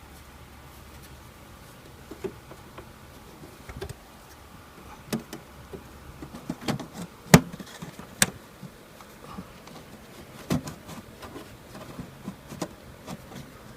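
Scattered clicks and knocks of parts and tools being handled as the rooftop air conditioner's access panel is put back together. The loudest knock comes a little past the middle, with another just after.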